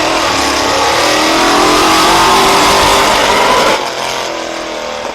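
Monster truck engine at high revs, its pitch rising and falling. It drops off abruptly about four seconds in.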